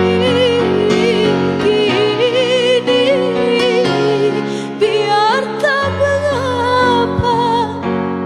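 Dangdut song: a female voice sings a wavering, ornamented melody over steady instrumental backing.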